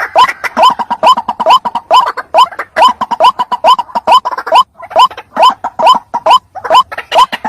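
White-breasted waterhen (ruak-ruak) calling: a rapid, unbroken series of short, rising notes, about three a second.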